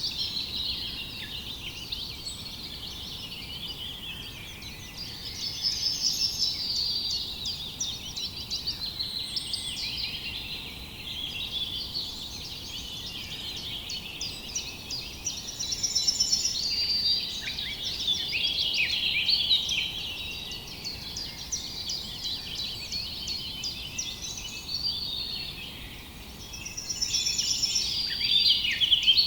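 Dawn-chorus-like mix of many songbirds chirping and trilling at once, the calls overlapping without pause, swelling louder a few times, over a faint steady background hiss.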